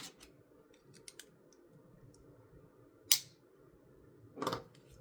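LEGO plastic bricks being handled and pressed together: a few light clicks in the first second or so, one sharp snap about three seconds in, then a brief softer rustle near the end.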